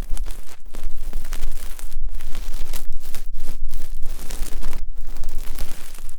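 Ear-cleaning ASMR sounds: close scratching and rubbing right at the microphone, in uneven strokes broken by a couple of brief pauses.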